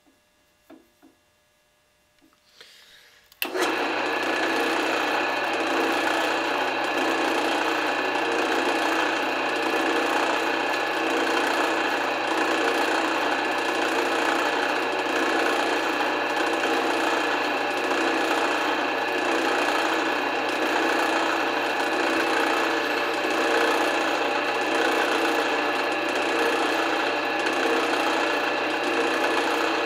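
Drill press running steadily, spinning a screw chucked in it while its head is turned down smaller. After about three seconds of near silence with a few faint clicks, the motor's steady hum and whine start abruptly.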